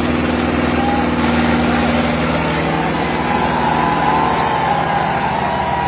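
Diesel tractor engines running steadily at high load, pulling against each other in a tractor tug-of-war.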